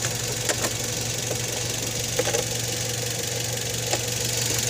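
Toyota Vios VVT-i four-cylinder engine idling steadily under the open hood, with a few light clicks over the hum.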